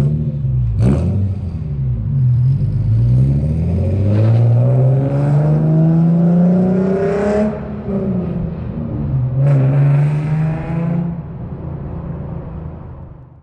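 Infiniti G coupe's V6 with an aftermarket exhaust and Motordyne ART pipes, accelerating hard as the car pulls away: the engine note climbs steadily, drops at an upshift about seven and a half seconds in, climbs again in the next gear, then fades as the car drives off.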